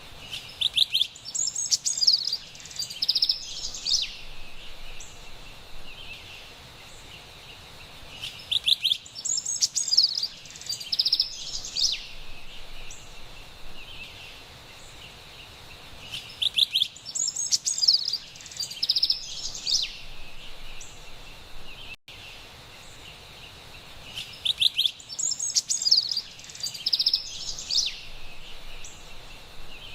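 Carolina wren singing: four near-identical bursts of loud, high song about eight seconds apart, each lasting about three seconds. Between them is a steady, high-pitched background hiss.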